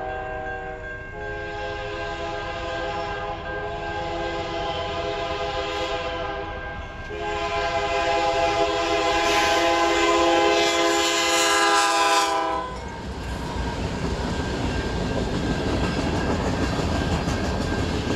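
Locomotive air horn sounding a chord in long blasts, broken briefly about a second in and again around seven seconds, with the last blast the loudest. The horn stops about twelve and a half seconds in, and the steady rumble and rattle of the passing train carries on.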